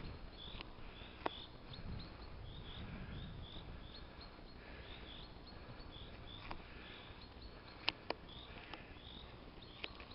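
Faint birdsong of short, high chirps repeating a few times a second, over a low rumble. A few sharp clicks stand out, two of them close together about eight seconds in.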